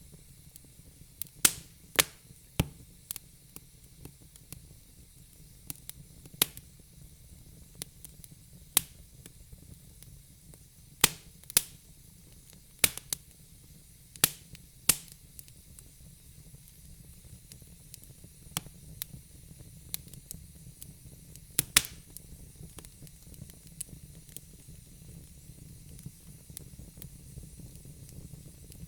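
Wood fire burning in a fireplace: sharp, irregular pops and crackles over a low steady rumble and soft hiss of the flames, the pops thinning out in the last few seconds.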